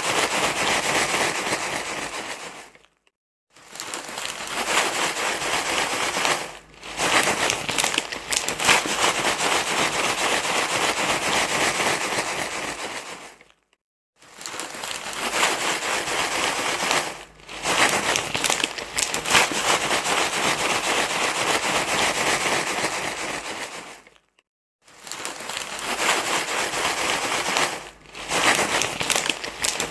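Dense crinkly rustling, as of something being crumpled and rubbed continuously. It comes in long stretches broken by brief silences every few seconds.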